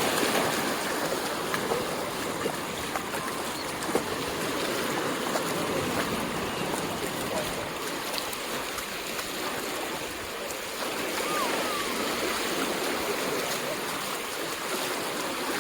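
Surf washing onto a sandy beach as a steady hiss of water, with faint voices in the background.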